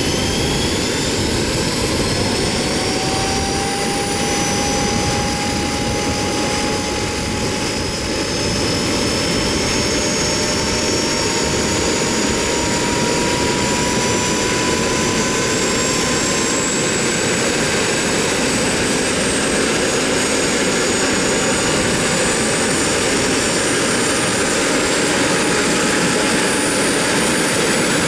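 Radio-controlled model helicopter running, a steady engine-and-rotor noise with a high whine that climbs slowly in pitch.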